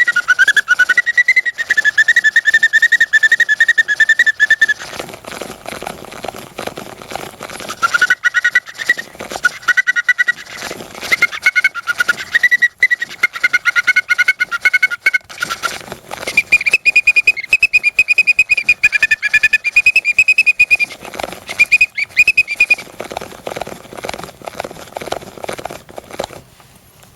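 Hand-cranked bird organ (serinette) playing a melody of high, whistling pipe notes, sometimes two at once, in short phrases. The cranking mechanism and bellows clatter underneath and are heard alone between phrases. The tune ends shortly before the end.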